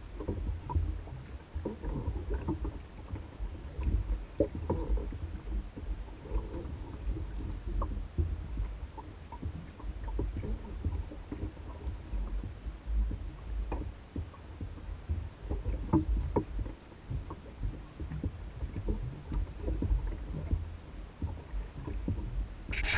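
Small lake waves lapping and slapping against an Old Town Guide 119 canoe's hull as it bobs on flat water. Irregular light knocks run over a steady low rumble.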